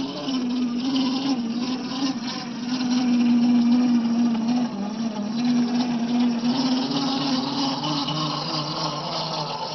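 A scale RC crawler truck's electric motor and gear train whining steadily, its pitch wavering up and down with the throttle and dropping lower near the end.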